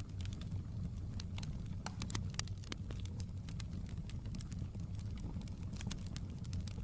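Wood fire burning in a fireplace: a steady low roar of flames with irregular sharp crackles and pops scattered throughout.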